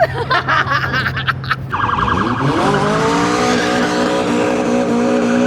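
A quick run of sharp cracks, then a car engine revs up over about a second and holds at high revs.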